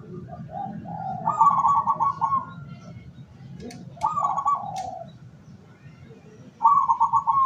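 Zebra dove (perkutut) cooing: three phrases of rapid, trilled coos, the first starting with a few lower notes about a second in, one near the middle, and one near the end.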